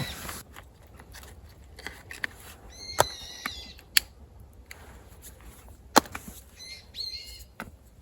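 A wild bird calls twice in the forest, each a short call of about a second. Several sharp, loud clicks or pops come in between.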